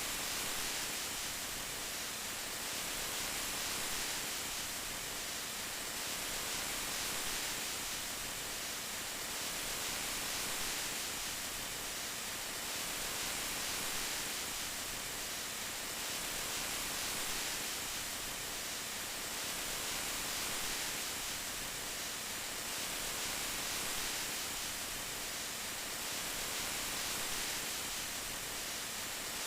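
Steady rain, an even hiss with no separate drops or thunder standing out, swelling gently about every three seconds.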